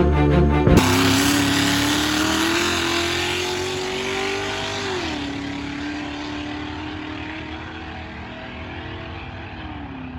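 Car engine accelerating down a drag strip, its pitch climbing for a few seconds, then dropping once about five seconds in as it shifts gear. It fades steadily as the car pulls away, and the pitch falls again near the end as it lets off.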